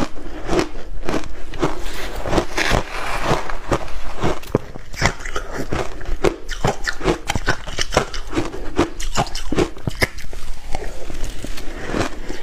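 Close-miked crushed ice being bitten and chewed, with passion fruit mixed in: rapid, continuous crunching.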